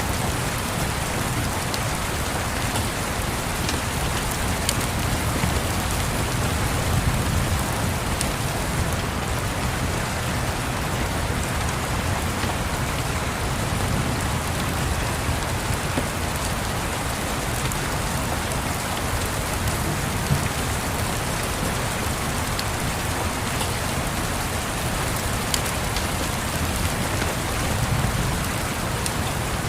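Steady rain, with a low rumble that swells now and then underneath and a few faint sharp clicks.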